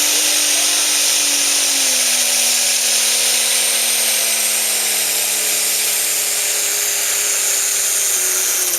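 Turbocharged diesel pulling tractor at full throttle under load, the turbocharger whining high over a steady engine note. The engine's pitch sinks slowly as it is pulled down, then drops away right at the end.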